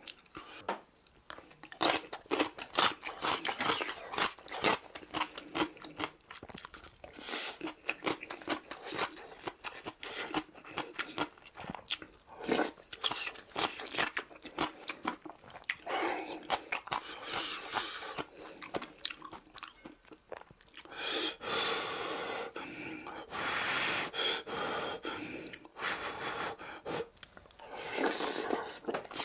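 A man eating close to the microphone: chewing and biting mouthfuls of braised tofu, vegetables and rice, with frequent short clicks and crunches and a few longer mouth sounds in the last third.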